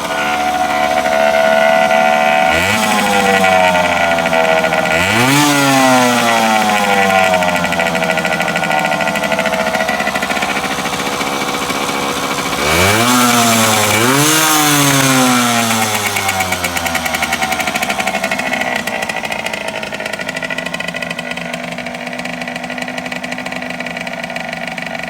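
Honda MTX50R's small two-stroke single-cylinder engine idling, with the throttle blipped twice in quick succession a few seconds in and again about halfway through. Each time the revs rise sharply, then fall slowly back to a steady idle.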